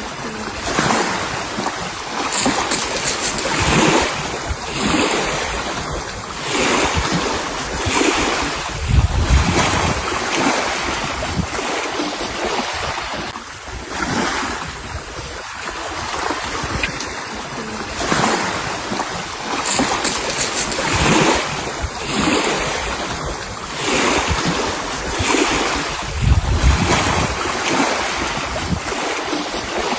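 Sea waves washing ashore with wind, swelling and easing every second or two.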